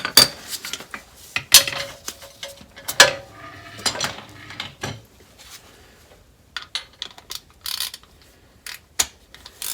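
Metal hand tools clinking and clanking, with five sharp clanks spaced about a second apart and brief ringing, then lighter scattered ticks.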